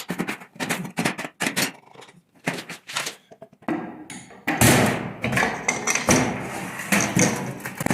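Metal engine parts and hand tools knocking and clinking in quick, uneven strikes during an engine teardown, then a louder, harsher scraping or rattling noise lasting about three seconds.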